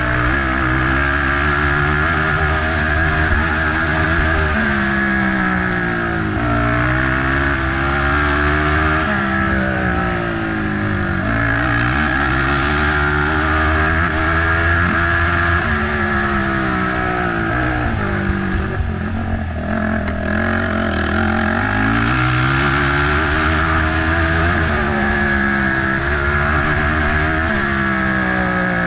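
Race quad's engine running hard, its pitch climbing and falling again and again as the throttle opens and closes through the course, with a brief throttle lift near the end of the second third.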